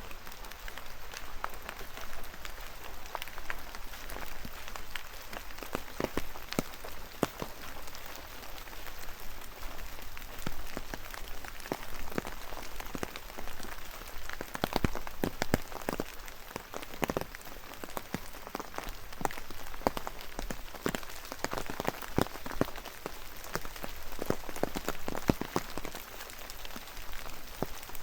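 Rain falling, with a steady hiss and many irregular drop taps, some of them louder and sharper.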